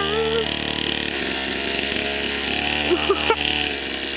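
Pit bike's small single-cylinder engine running at low, fairly steady revs, with a slight dip in pitch about a second in.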